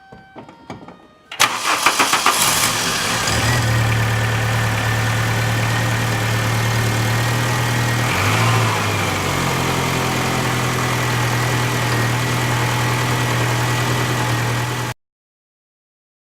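A 2000 VW Cabrio's 2.0-litre four-cylinder engine cranks for about a second and catches, then idles steadily, with a brief dip in speed about midway. It is running on a replacement ignition coil, the original coil being cracked and bad. The sound cuts off suddenly near the end.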